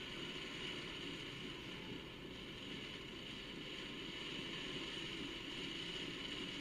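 Steady low rumble under an even hiss of vehicle traffic noise, with no distinct events.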